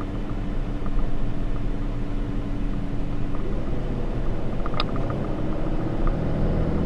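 A 2013 Ram 3500 dual-rear-wheel pickup with a 6.7-litre Cummins inline-six turbo-diesel driving along: a steady rumble of engine and road noise. A steady hum stops about three and a half seconds in, and there is a single click near five seconds.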